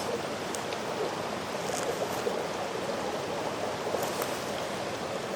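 Mountain stream flowing steadily, with a few faint clicks over it.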